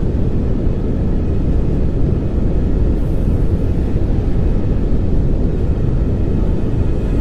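Steady pink noise: an even, unchanging rushing hiss, heaviest in the low end, with no pitch or rhythm.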